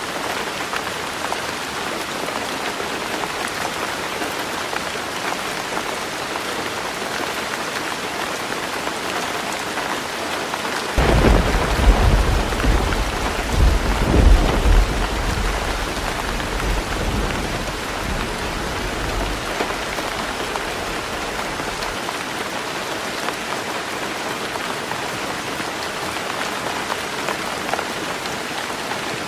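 Heavy rain falling steadily on a roof. About eleven seconds in, a roll of thunder breaks in and rumbles for several seconds before fading away.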